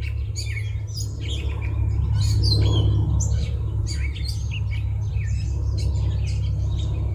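Several small birds chirping and singing in quick short calls throughout, over a steady low hum.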